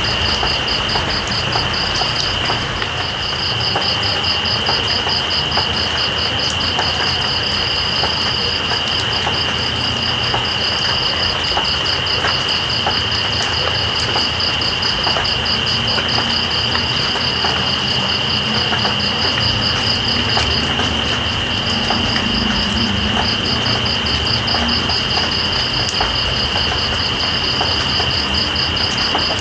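Steady rain hiss with night insects trilling over it: one holds a continuous high buzz, while another gives a fast pulsing trill that breaks off briefly a few times.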